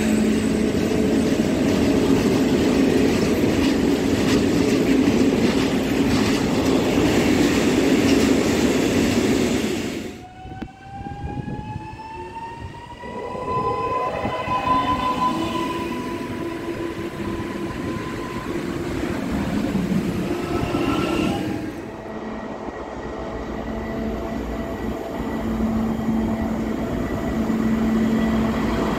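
A long freight train of open wagons rolls past with a heavy rumble. Then an electric multiple unit pulls away, its traction motors whining and rising in pitch before levelling off. Near the end, a Soviet-built M62-type diesel locomotive approaches with a steady, growing engine drone.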